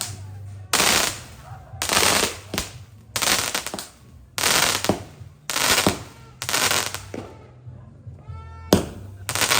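Firework fountain spraying in regular pulses, a loud hissing, crackling burst about once a second. A short pitched whine sounds in a gap between pulses near the end.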